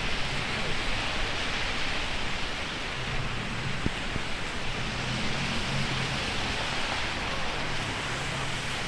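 Heavy rain falling steadily, a dense even hiss, with a low hum coming and going underneath.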